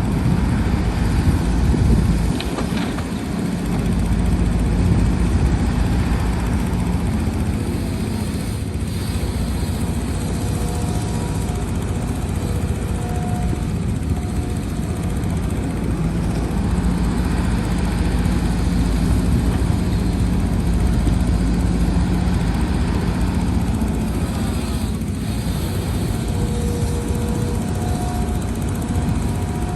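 Heavy diesel earthmoving machinery, an excavator and dump trucks, running steadily with a deep continuous rumble. Short high whining tones come and go over it a few times.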